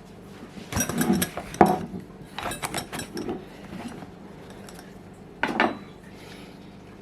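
Metal camping tools clinking and clattering as they are handled and slipped into the pouches of a tool belt, in a few short clusters of clinks, with a last brief clatter near the end.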